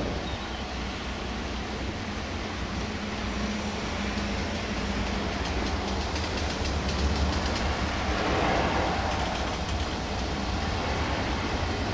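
Diesel train running, with a steady low engine hum under a rushing noise.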